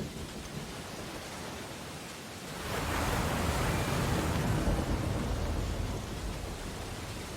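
Ocean surf on a beach: a steady wash of waves, with one wave breaking about three seconds in, surging for a few seconds and then fading back.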